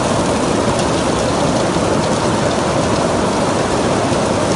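Heavy rain pouring onto a water-covered stone courtyard floor: a loud, steady hiss.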